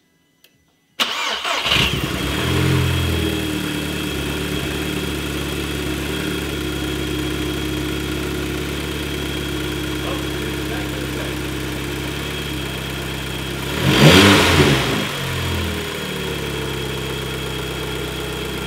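Audi TT's turbocharged four-cylinder engine starting about a second in, flaring briefly, then idling steadily. It grows briefly louder about fourteen seconds in before settling back to idle.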